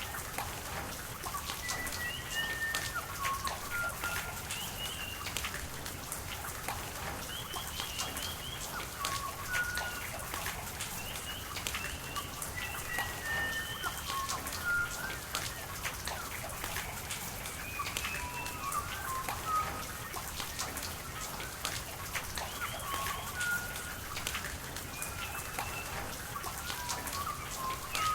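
Steady rain falling with many sharp drops spattering over running water, while small birds chirp throughout in short, repeated whistled notes.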